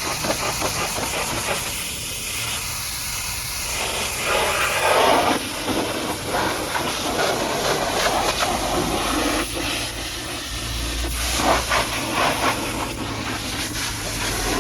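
High-pressure washer jet hissing as it sprays mud off a dump truck, the spray swelling and fading as the wand moves. A low steady hum comes in about two-thirds of the way through.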